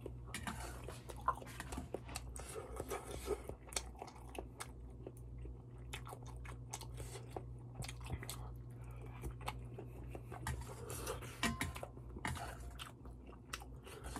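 A person chewing and biting mouthfuls of malatang close to the microphone, with many short sharp clicks from the mouth. A steady low hum runs underneath.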